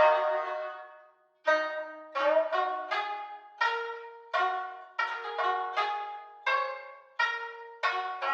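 Koto and Tsugaru shamisen playing a melody in sharply plucked notes that ring and fade quickly, with a brief pause about a second in.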